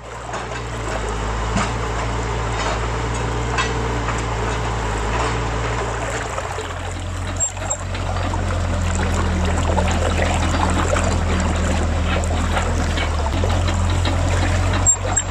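Steady rush of river water with the low hum of a radio-controlled excavator's electric motors underneath. The hum shifts pitch about six and a half seconds in and again near thirteen seconds as the model tracks down off the trailer, with scattered light clicks.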